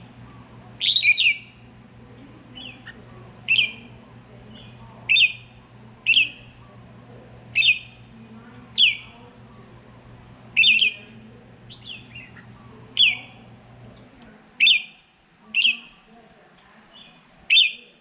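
A songbird calling over and over: short, sharp calls, each a quick falling sweep, about a dozen of them spaced a second or two apart.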